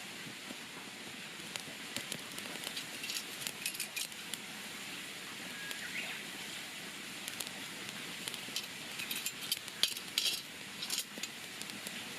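Wood campfire crackling: irregular sharp pops and snaps over a steady hiss, coming thicker about two thirds of the way through.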